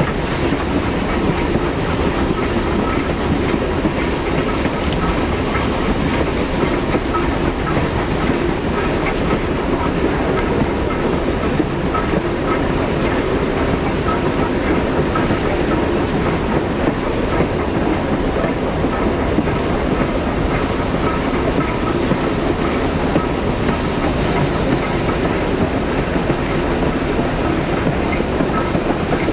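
Passenger train rolling steadily behind a 2-4-4-2 steam locomotive, heard from an open observation car: a constant rumble of wheels on the track with light scattered clicks.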